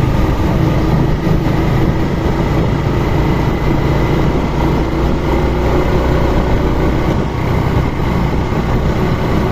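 Steady engine and road noise of a motorbike being ridden, with a constant low hum under a rushing noise.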